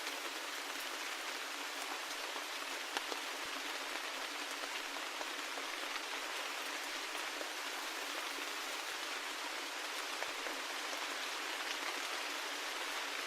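Steady rain falling, a continuous even hiss with scattered individual drops ticking sharply through it.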